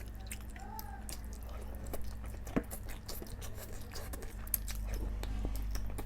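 Close-up eating sounds: chewing, with scattered small wet clicks and smacks of the mouth, over a steady low hum.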